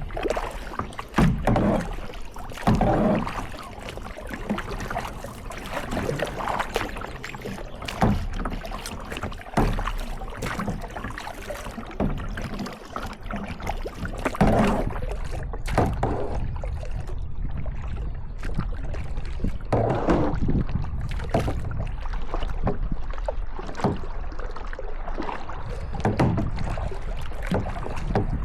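Kayak paddling: paddle blades dipping and splashing in lake water at irregular intervals, over a steady low rumble.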